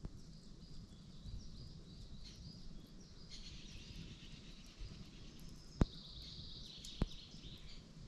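Small birds chirping and trilling over a low rumble, with two sharp clicks near the end.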